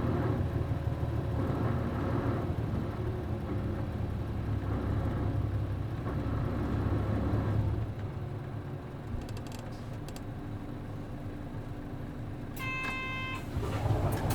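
Route bus with an MD92TJ diesel engine heard from on board, running under load and then easing off about eight seconds in. A short electronic tone sounds near the end.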